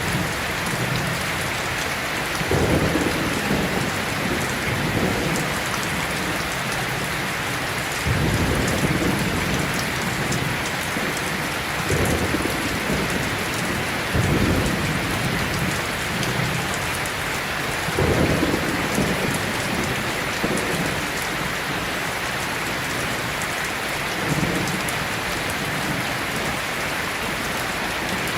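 Heavy rain falling steadily, with low rumbles of thunder swelling up about half a dozen times, each lasting a second or two.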